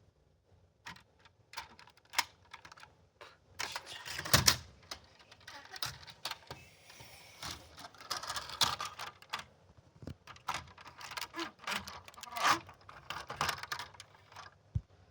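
Irregular clicks, taps and short clatters of small hard objects being handled and set down, thickest through the middle and loudest about four and a half seconds in.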